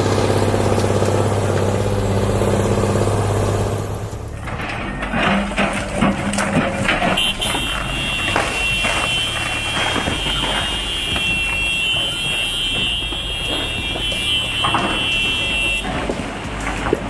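Heavy vehicle engine running with a steady low drone. About four seconds in, the sound changes abruptly to a rougher mix of rattles and knocks. A few seconds later a steady high whine joins it and stops shortly before the end.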